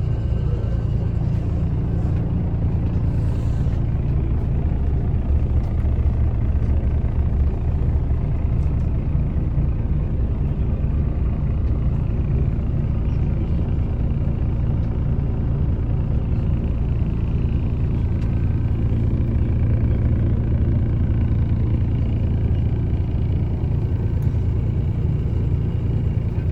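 Mercedes-Benz O307 city bus under way: a steady diesel engine drone and road rumble, heard from inside the passenger cabin.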